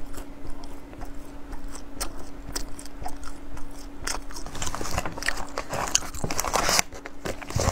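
Close-miked mouth chewing a matcha-cranberry sachima bar: a stream of crunchy clicks and smacks, busiest in the second half. A faint steady hum runs beneath.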